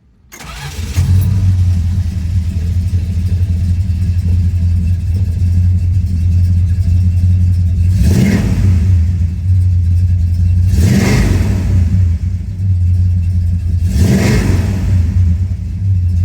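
1970 Plymouth Road Runner's 383 Magnum V8 starting within the first second and settling into a heavy, lumpy idle. The throttle is blipped three times, about three seconds apart, each a quick rise and fall in revs.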